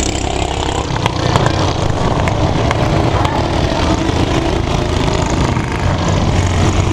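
Minibike engines running in a race on a dirt flat track, a steady loud drone with a few sharp clicks between about one and three seconds in.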